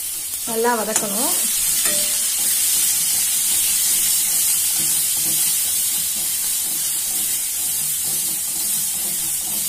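Masala with potato pieces sizzling steadily in a steel kadai while it is stirred with a metal spatula.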